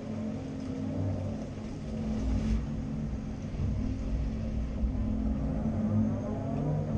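Caterpillar 330 Next Generation excavator's diesel engine running under working load, its note rising and falling as the machine works.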